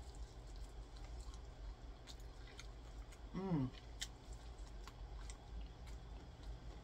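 Close-miked eating of a fried chicken drumstick: meat torn off the bone and chewed, with scattered small crackles and mouth clicks. About three and a half seconds in there is a short vocal 'mm' that falls in pitch.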